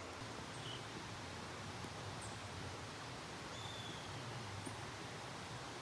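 Outdoor countryside ambience: a steady low rumble and hiss, with a few faint, short high bird chirps scattered through it.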